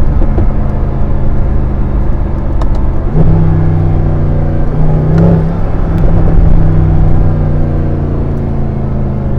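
Mercedes-Benz SLS AMG's 6.2-litre V8 running under way, a steady engine note that steps up and gets louder about three seconds in.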